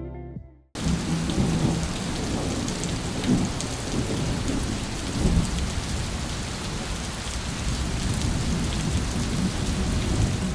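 Heavy summer rain pouring down, a dense, steady hiss and patter that starts abruptly about a second in after background music fades out.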